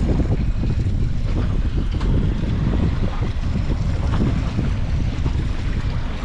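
Heavy wind buffeting the microphone on a moving boat, a steady low rumble with no clear engine note.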